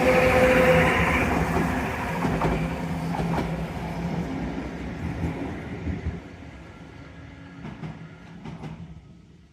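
Randen Kitano Line tram running past, loudest at first and then steadily fading away, with a few sharp clicks near the end.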